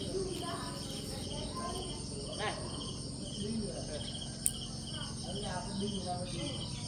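Insects chirping steadily, in short pulsed chirps about twice a second, with one sharp click about four and a half seconds in.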